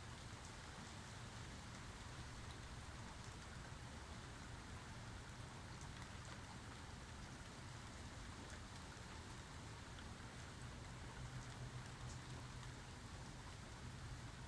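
Steady rain falling, with scattered individual drop ticks over an even hiss and a low rumble underneath that swells slightly about three-quarters of the way through.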